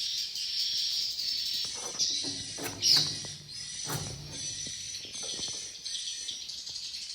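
Swiftlets chirping in a dense, continuous high twitter, with a couple of sharp knocks, the loudest about three seconds in and another a second later.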